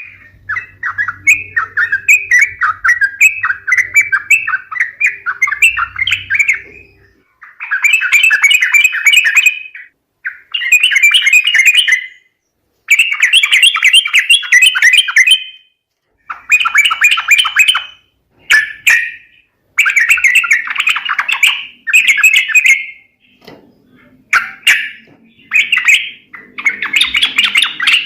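Yellow-vented bulbul (trucukan) calling as a bird-trapping lure: loud bursts of quick chattering, bubbling notes. Each phrase lasts a second or two, with short pauses between.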